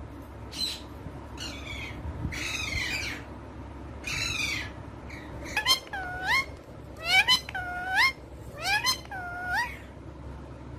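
Female Indian ringneck parakeet vocalizing in a string of short calls. The first few are harsher and raspier; about halfway in comes a run of about six calls, each dipping and then rising in pitch.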